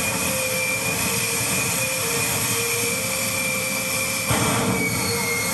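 Jet truck's jet engine running steadily, a rushing roar with a held high whine over it. About four seconds in there is a brief louder surge.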